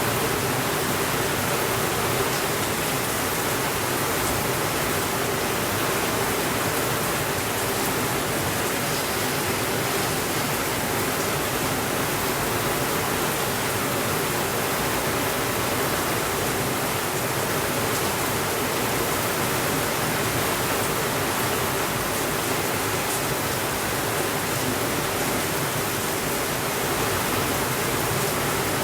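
Steady, even rainfall, with a few faint ticks.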